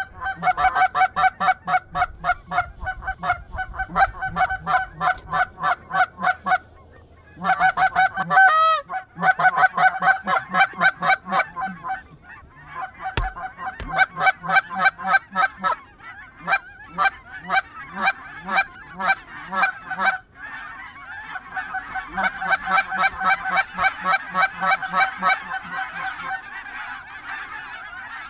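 Canada goose honking: rapid, regular honks, about four or five a second, in long runs broken by brief pauses.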